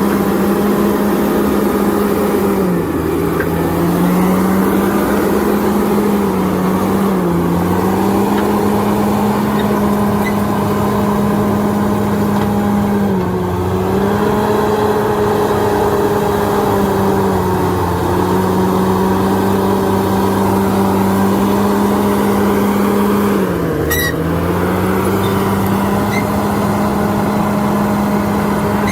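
Heavy diesel engine of an earthmoving machine running steadily at high revs. Its pitch sags and recovers four times as it takes on load.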